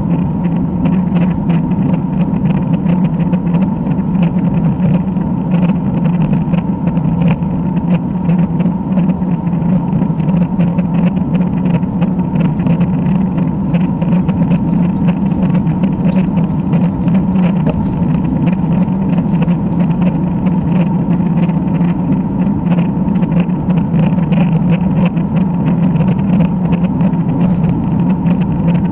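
Steady rumbling ride noise from a road bike climbing: wind and tyre noise picked up by the bike-mounted camera, unchanging throughout.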